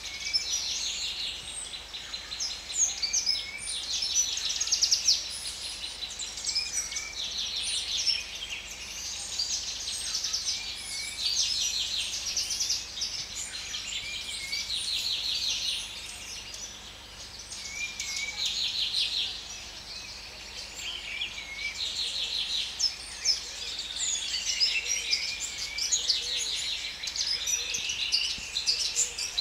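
A chorus of many songbirds chirping and singing together, with a buzzy, rattling phrase repeated every couple of seconds among the busy high chirps.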